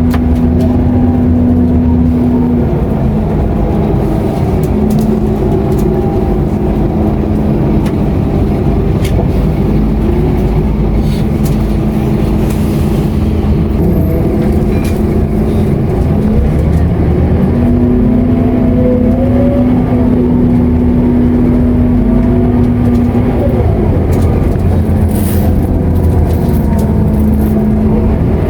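Scania K230UB bus's diesel engine running under way, heard from inside the bus, its pitch rising as it accelerates in the middle and again later, over a steady low rumble and a held whine that drops out and comes back. Light rattles and clicks from the bus body throughout.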